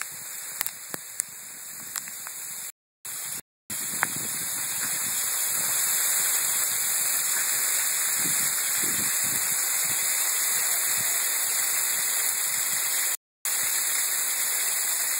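Sleet and rain coming down hard, a steady hiss that grows louder about four to six seconds in, with a few sharp ticks over the first four seconds. The sound cuts out briefly three times.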